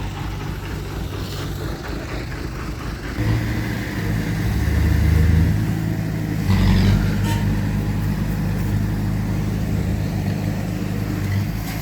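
Heavy diesel engine of earthmoving machinery running at work: a steady low drone that rises under load about three seconds in and again about six and a half seconds in.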